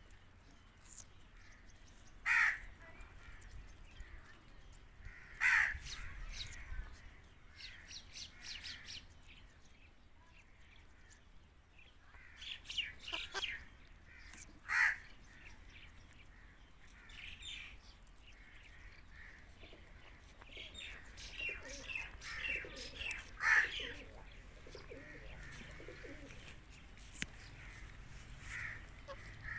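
Indian ringneck parakeet calling: short, harsh single screeches every few seconds, with softer chirps and chatter in between.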